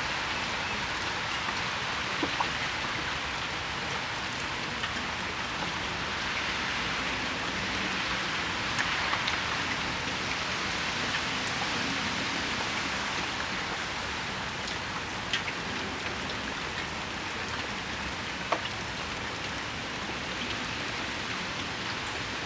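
Steady rain shower falling, a constant even hiss with scattered sharper taps of single drops hitting nearby surfaces, a few of them louder.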